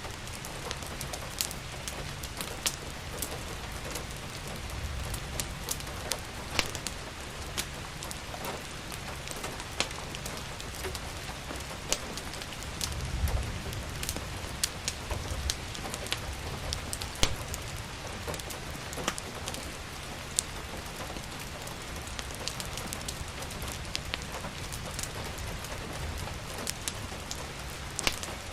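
Steady rain with scattered sharp pops and crackles from a wood fire, and a brief low rumble about halfway through.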